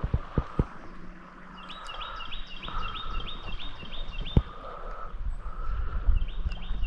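A bird calling outdoors: a fast series of short, high chirps, about six a second, heard twice. A few sharp knocks come at the start.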